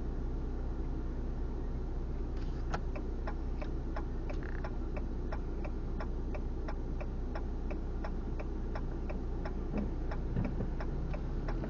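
Car turn-signal indicator clicking steadily, about three clicks a second, over the low hum of the idling engine in the cabin; the clicking starts a couple of seconds in.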